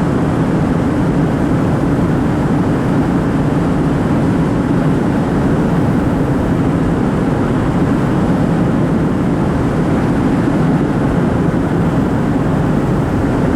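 Steady road and engine noise of a 2004 Ford Focus cruising at highway speed, about 70 mph, heard from inside the car, with an even rumble.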